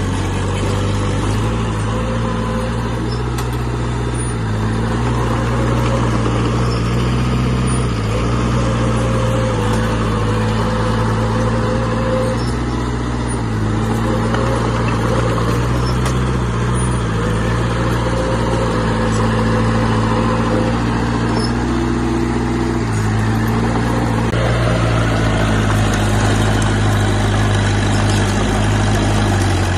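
Heavy earthmoving machine's diesel engine running continuously, its note stepping up and down in pitch a few times as it works.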